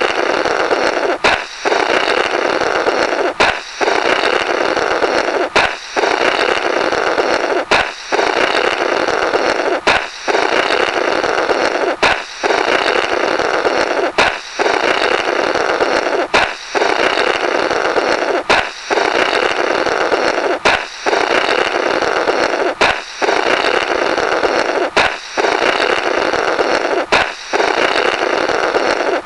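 Cartoon 'Blorrrt' balloon sound effect on a loop: a balloon pops, then about two seconds of buzzy, rasping blowing through the burst rubber follows. The cycle repeats roughly every two seconds, about a dozen times.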